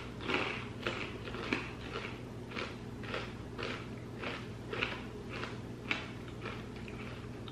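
A person chewing a mouthful of chocolate-glazed popcorn clusters with brittle pieces, crunching about twice a second.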